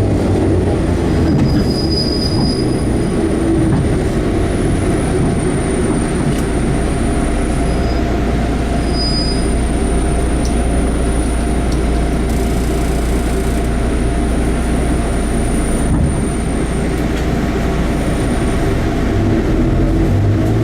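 Enshu Railway 30-series electric train running steadily, heard from inside the car: a continuous rumble of wheels on rail with a thin high-pitched squeal that comes and goes.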